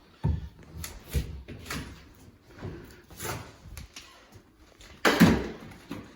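A run of irregular knocks and bangs from hands-on work on an interior drywall wall, about eight of them, with the loudest bang about five seconds in.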